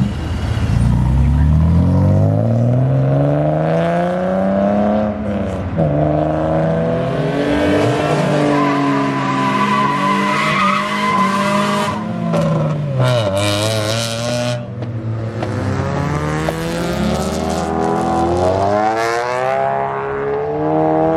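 Car engines revving hard as cars accelerate away one after another, the pitch climbing and dropping sharply at each gear change, with several engines overlapping.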